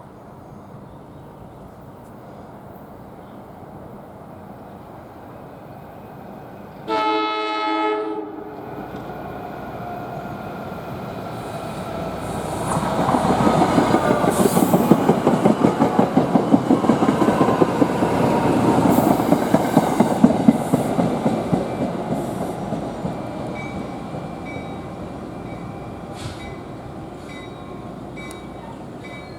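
A commuter train's horn gives one short blast about seven seconds in, then the train passes, its wheels clicking rapidly over the rail joints, loudest in the middle and fading away near the end.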